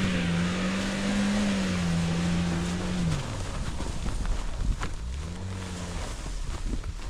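Niva 4x4's four-cylinder engine working under load as it tows a log, revs held high for about three seconds and then dropping off. It revs up briefly again about five seconds in, with a couple of sharp knocks in between.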